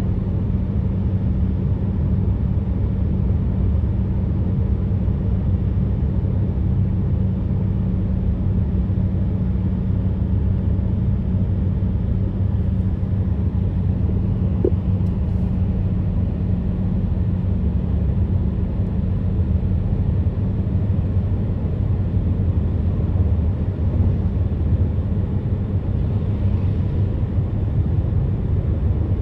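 Steady low rumble of vehicles driving on a road, with a constant engine drone and no change throughout.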